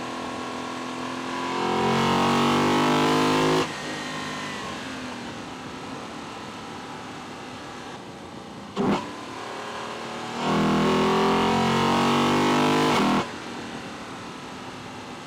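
Induction noise of a Lexus LC 500's 2UR-GSE 5.0-litre V8, heard from inside the engine bay: two hard bursts of throttle, each lasting two to three seconds with the pitch climbing, and each cutting off suddenly, over a lower steady running sound. A single short sharp sound comes between the two bursts.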